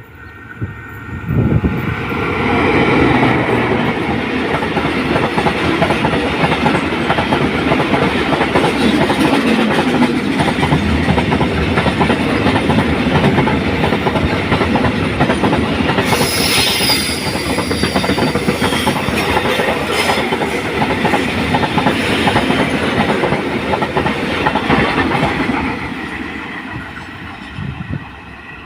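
A train passing close by, its wheels clattering over the rail joints. It builds suddenly about a second and a half in, holds, and fades near the end, with a brief high wheel squeal a little past halfway.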